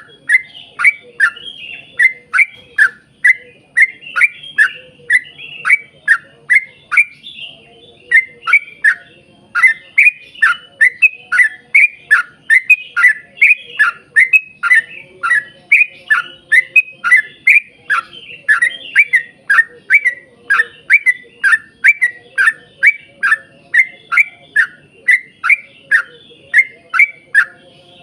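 Yellow-vented bulbul (trucukan) singing a long, rapid run of short, falling notes, about three a second, with a short pause about seven seconds in.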